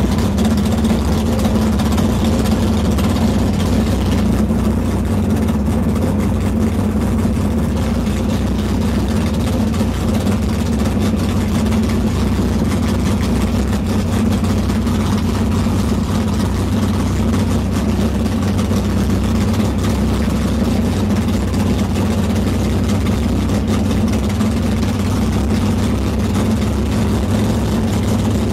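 Hot rod's engine running steadily at low cruising speed, heard from on board the car, with an even low-pitched tone and no revving.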